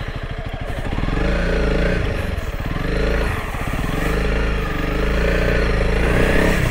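Honda CRF300L Rally's single-cylinder four-stroke engine putting at low revs, then its note rising and falling with the throttle as the bike is ridden.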